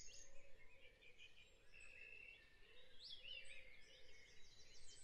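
Near silence, with birds chirping faintly in the background: short rising and falling chirps and a few quick trills.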